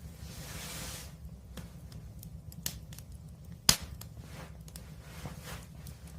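Wood fire burning with a low steady rumble and scattered crackles. A brief hiss comes in the first second, and one loud sharp pop comes a little before the four-second mark.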